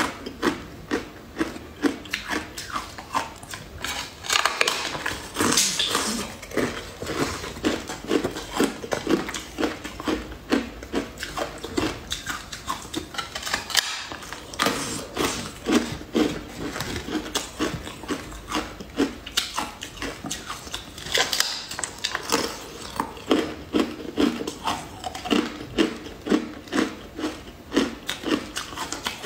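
Close-up eating sounds of a person biting and chewing a slab of purple jelly candy: a fast, irregular run of wet clicks and crisp crackles, with a few denser crackling stretches.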